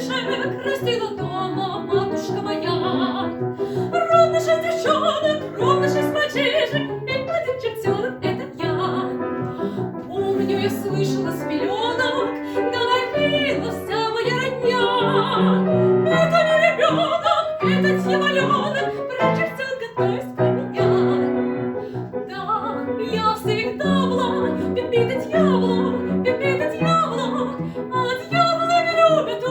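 A soprano singing an operetta song in full voice with wavering vibrato, accompanied by piano.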